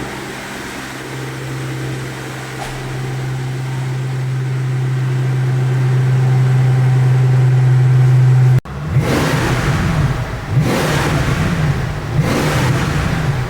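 Car engine idling steadily for most of the time, then, after an abrupt cut, being revved several times, each rev rising and falling in pitch. The idle is the cold start; the revs come after warm-up.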